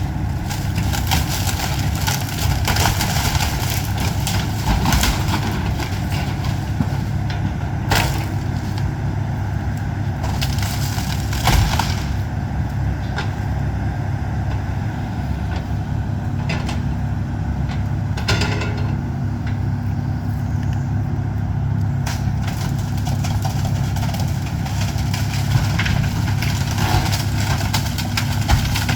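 Excavator's diesel engine running steadily while it tears down a house, with the crunch of breaking wood and debris and a few sharp cracks, the loudest about eleven seconds in.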